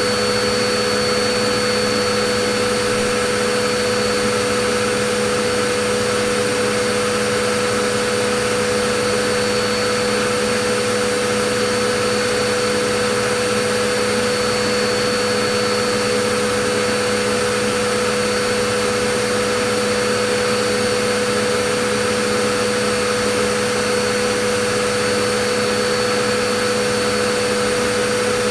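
Vacuum cleaner running at a steady pitch: a constant whine over a loud, even rush of air, with no change in speed.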